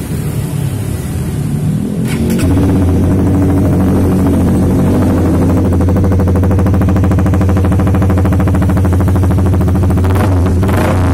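Honda CBR150R facelift's single-cylinder engine running through an Audey SR-T full-system stainless aftermarket exhaust. About two and a half seconds in the revs rise and are held steady and loud. A few sharp bursts come near the end.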